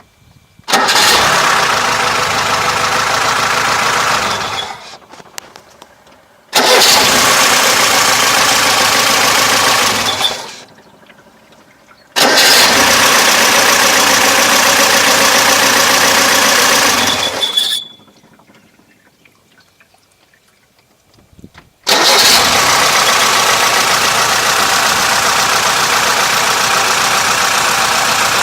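VAZ 2106 inline-four engine started and shut off four times, running a few seconds each time, with a brief high squeak as it catches and as it stops. The squeak on starting and shutdown is the fault being investigated.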